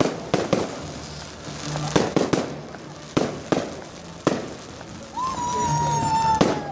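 Fireworks going off: a string of sharp bangs, several in quick succession. From about five seconds in, a steady whistle that slowly falls in pitch, typical of a whistling firework.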